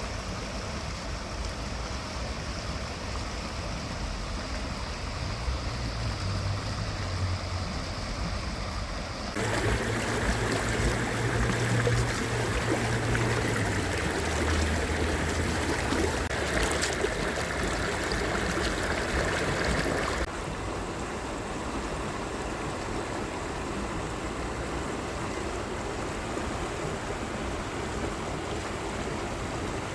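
Stream water flowing steadily, a constant rushing, which turns suddenly louder and brighter for about ten seconds from a third of the way in before dropping back just as suddenly.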